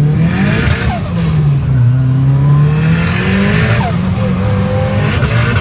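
Turbocharged Nissan CA18 four-cylinder engine in a rear-wheel-drive Evo, revving up and falling back again and again through a drift, heard from inside the car, with bursts of tyre noise as the rear wheels slide.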